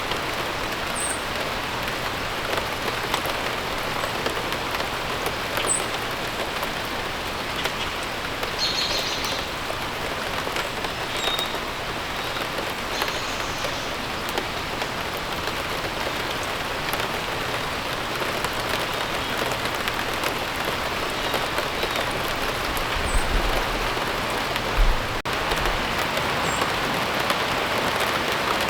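Steady rain falling, a dense even patter, with a few brief high bird chirps now and then. A short low rumble rises out of it near the end.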